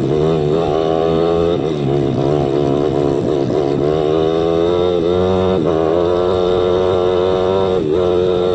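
Enduro motorcycle engine running steadily under load, its pitch rising and falling with the throttle, with brief drops in revs a few times.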